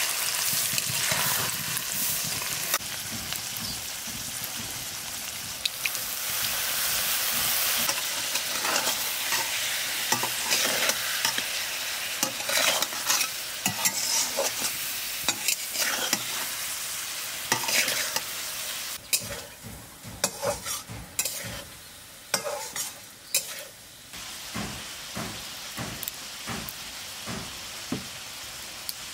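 Poached eggs frying in oil with onions and spices in a metal kadai, sizzling steadily while a metal spatula scrapes and taps the pan. About two-thirds through the sizzle dies down, leaving mostly separate scrapes and clicks of the spatula.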